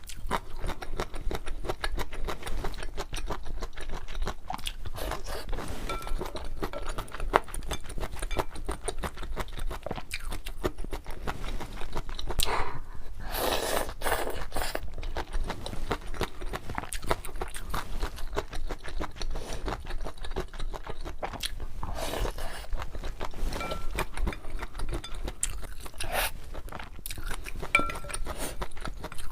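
Close-miked eating of luosifen rice noodles: chewing and biting with many small wet clicks and crunches, and a longer, louder burst about 13 seconds in.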